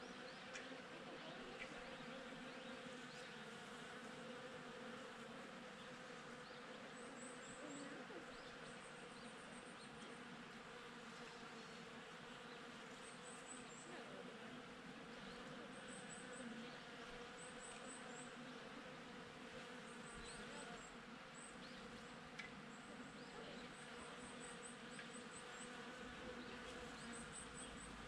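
Honeybees buzzing steadily at cherry blossoms, a faint, continuous hum. Short runs of faint high chirps recur throughout.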